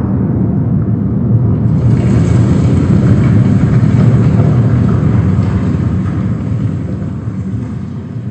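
Rolling thunder: a loud, deep rumble that swells to its peak about halfway through and then slowly dies away.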